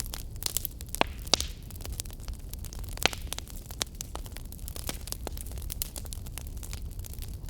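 Wood fire crackling in a fireplace: a steady low rumble and hiss of burning with frequent small irregular crackles, and a few louder pops about a second in and again around three seconds in.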